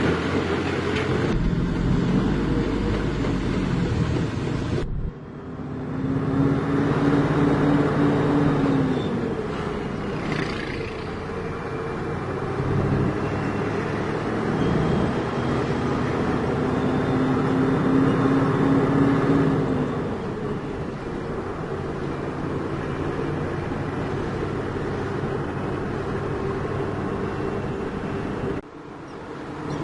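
Heavy diesel engine running, revving up and easing back down twice. The sound breaks off abruptly about five seconds in and again near the end.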